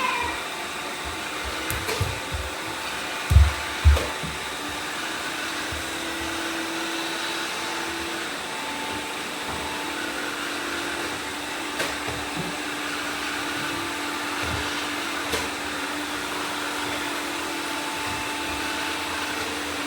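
Several robot vacuums running at once, a steady whir of brush and suction motors with a hum that drops slightly in pitch about eight seconds in. Two dull thumps about three and a half and four seconds in, with a few fainter knocks later.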